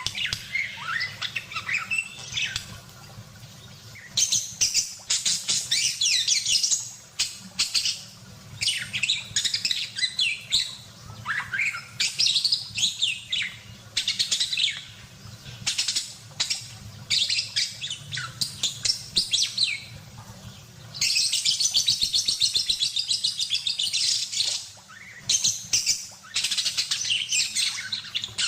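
Budgerigar in full song, chattering: runs of rapid, warbling high chirps and twitters a few seconds long, broken by short pauses, over a faint steady low hum.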